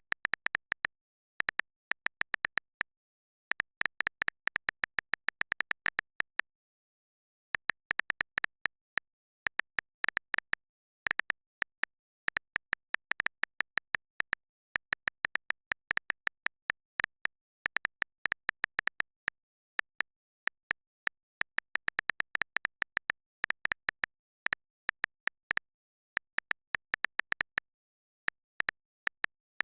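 Irregular sharp clicks coming in dense clusters, separated by stretches of dead silence.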